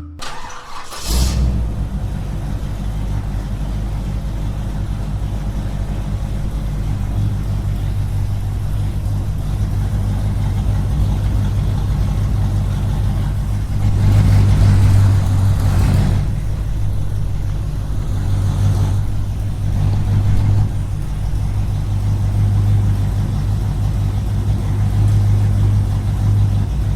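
A small motor running steadily with a low, even hum, which grows louder for a couple of seconds about halfway through.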